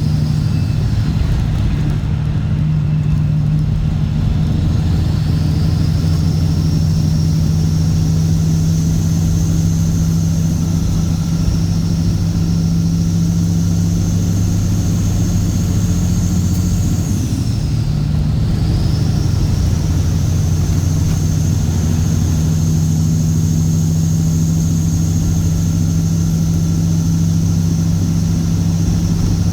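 Straight-piped Cat C15 ACERT diesel in a Kenworth W900 running under way, a steady deep drone with a high whine above it. About seventeen seconds in the sound breaks briefly and the whine drops, then climbs back and holds.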